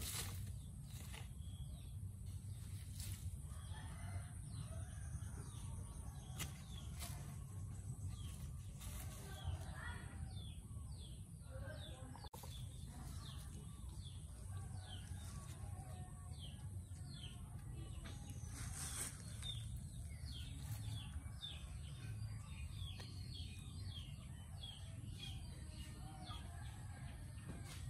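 Birds chirping: many short, high chirps that fall in pitch, repeating every second or so, over a low steady rumble, with a few brief rustles.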